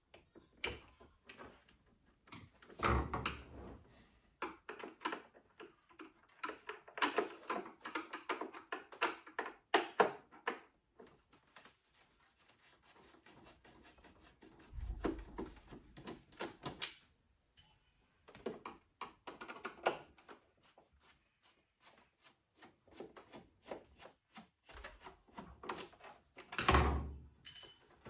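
Irregular clicks, knocks and rattles of machine parts and tools being handled while a DeLonghi Perfecta Cappuccino ESAM 5600 coffee machine is taken apart, with a few heavier thuds about 3, 15 and 27 seconds in.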